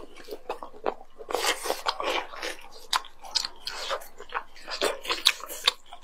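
Biting and chewing grilled squid: many short, irregular mouth clicks and smacks from the tender, springy flesh.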